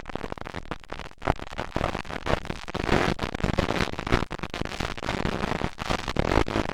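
Motocross dirt bike engines revving hard close to the microphone, a loud crackling racket with many sharp spikes.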